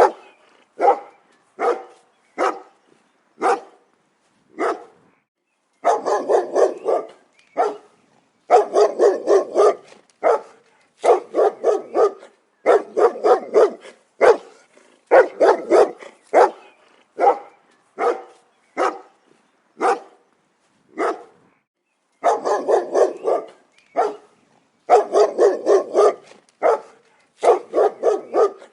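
A dog barking repeatedly, sometimes a single bark and sometimes quick runs of several barks, with short pauses in between.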